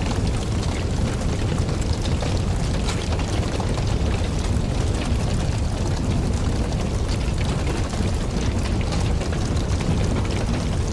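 Wood campfire burning, with a steady low rumble of flame and frequent small crackles and pops from the logs.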